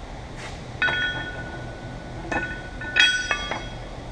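Metal counterweight plates clanking against each other and against the lifting tool as they are loaded: three sharp clanks that each ring on briefly. One comes about a second in, one past two seconds, and the loudest near the end.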